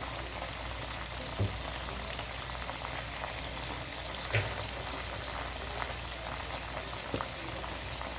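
Pork ribs frying in a pan: steady sizzling with fine crackle, and a few soft knocks scattered through it.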